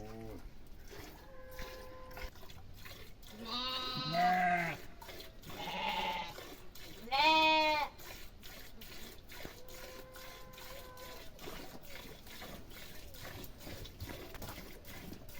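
Small livestock bleating: three long, wavering bleats about four, six and seven seconds in, the last the loudest, over faint ticks and rustles.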